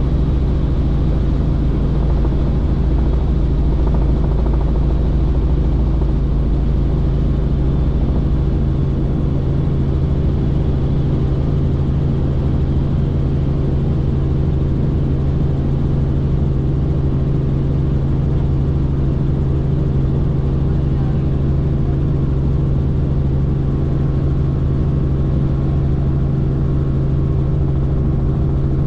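Helicopter in flight: a loud, steady drone of rotor and engine with a constant low hum and rumble. The lowest rumble eases slightly about eight seconds in.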